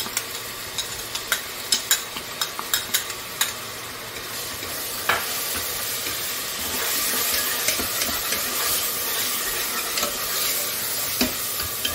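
Coarsely ground onions sizzling in hot ghee in a pressure cooker, with a steel ladle clinking and scraping as they are scooped in and stirred. The clinks come first, and the sizzle grows louder about four seconds in.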